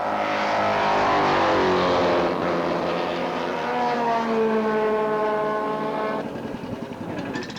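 Racing motorcycle engine passing at speed, loudest early on as it comes by, then its note falling in pitch as it moves away and fades about six seconds in.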